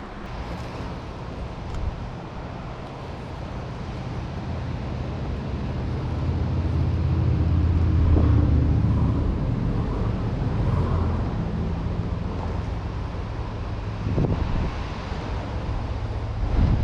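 A road vehicle passing, its low engine and tyre rumble swelling to a peak about eight seconds in and then fading, over the steady rush of outdoor background noise.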